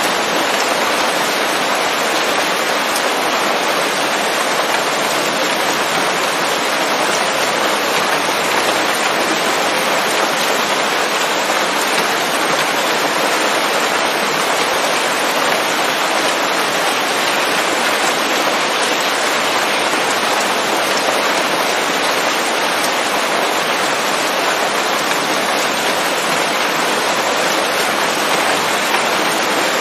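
Steady, dense rain falling on leaves, a constant even hiss of drops without distinct individual hits or pauses.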